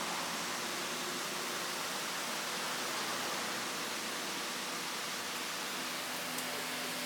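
Steady, even hiss of restaurant room noise with a faint low hum underneath, and one or two light clicks near the end.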